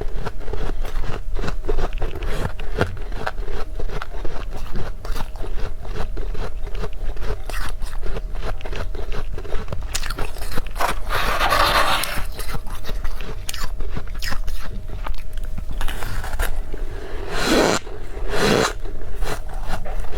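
Freezer frost being scraped and crunched in a quick run of crackly strokes. There is a longer, denser rasp about halfway through and two stronger scrapes near the end.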